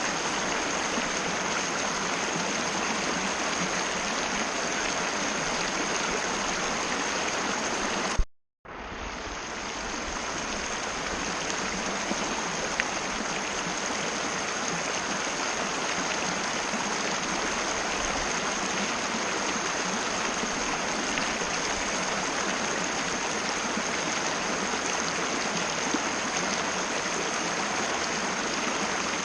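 Mountain river flowing with a steady rush of water. About eight seconds in, the sound cuts out completely for a fraction of a second, then fades back up.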